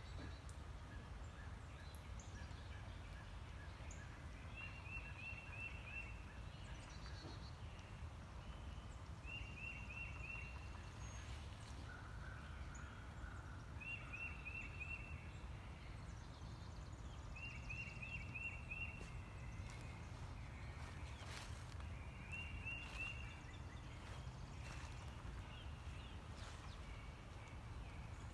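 Outdoor nature ambience: a bird repeats a short, rapid chattering call about every four seconds, with fainter calls in between, over a steady low rumble.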